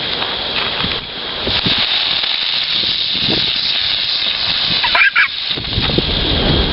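Burning hand-held fireworks hissing steadily. About five seconds in there is a brief high-pitched call that glides in pitch.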